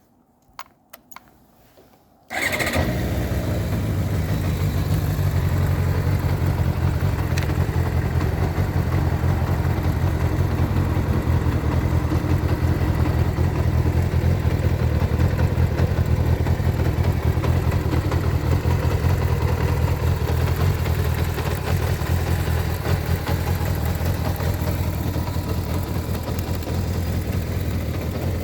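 Kawasaki ZR550 Zephyr's air-cooled inline-four engine starting: a few light clicks, then the engine catches about two seconds in and runs steadily without revving.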